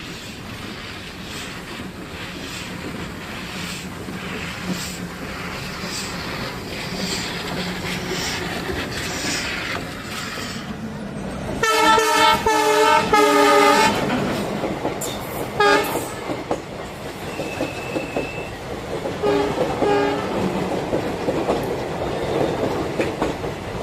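Darjeeling Himalayan Railway toy train running with a steady rhythmic beat, then sounding its horn: three loud blasts in quick succession about halfway through, followed by two shorter toots.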